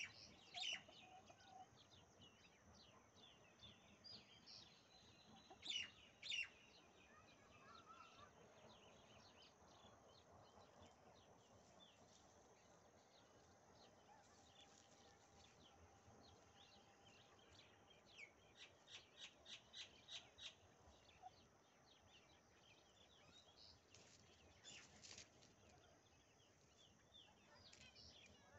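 Faint bird calls in the open: short high chirps scattered throughout, with a quick run of about eight sharp notes about two-thirds of the way through, over a low steady hiss.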